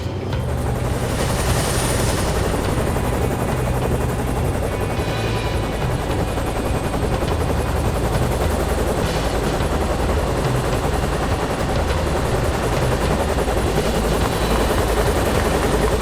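Military helicopter in flight: steady, heavy rotor and turbine engine noise, with a brief rushing swell about a second in.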